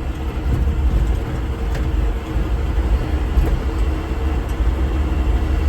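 Old manual-transmission truck's engine running with a steady low rumble while driving, heard from inside the cab.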